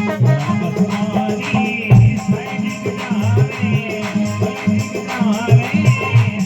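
Marwari bhajan music with no voice: a steady hand-drum beat with jingling, rattling percussion and a wavering melody line above it.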